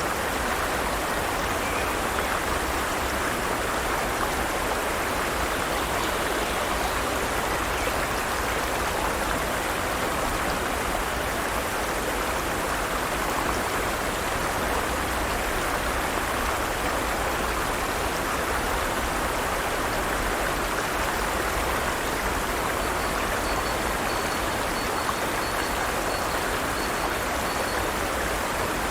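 Forest stream flowing, a steady, even rush of running water that does not change.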